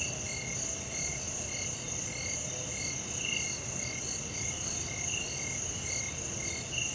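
Dusk chorus of frogs and insects: a steady high insect drone with frogs calling in short notes repeated about twice a second.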